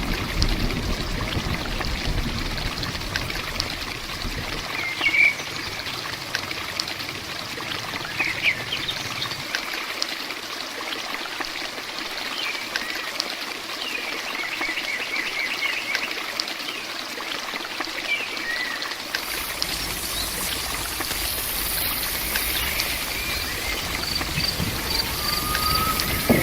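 Steady rain and running water with birds chirping now and then. About two-thirds of the way through, a high, even insect drone joins in.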